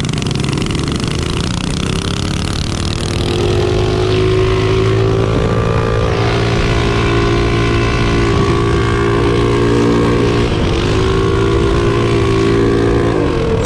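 Modified minibike's small single-cylinder engine held at full throttle in a drag run, its pitch climbing over the first few seconds and then holding high. It dips briefly about ten seconds in, then climbs back and stays near the top.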